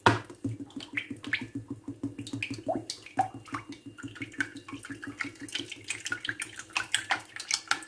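Water splashing, with many small irregular clicks.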